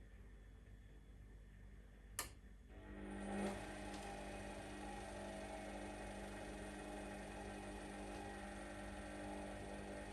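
Whirlpool WWDC 7440 washing machine: a sharp click about two seconds in, then the drum motor starts up with a steady whir that swells briefly and runs on evenly as the drum turns.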